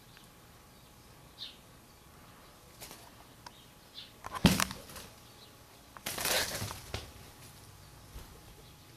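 A few faint, short, high single bird chirps. About four and a half seconds in comes a sharp loud knock, and around six seconds a second-long burst of rustling, like leaves and twigs brushing past the camera or wings flapping.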